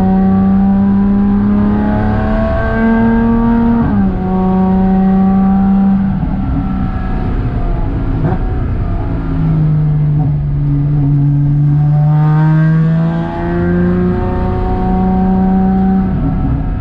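Porsche Cayman 987.2's flat-six engine heard from inside the cabin while the car is driven at speed on a race track, with road and tyre noise underneath. The engine note climbs, steps down sharply about four seconds in, sags lower around the middle, then rises again toward the end.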